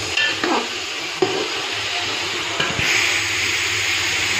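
Chicken and onions sizzling as they fry in a large aluminium pot, with a steel ladle knocking and scraping against the pot in the first second or so. The sizzle gets louder about three seconds in.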